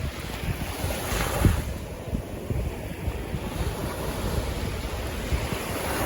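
Sea waves washing ashore, one wash swelling about a second in, with wind buffeting the microphone as a gusty low rumble.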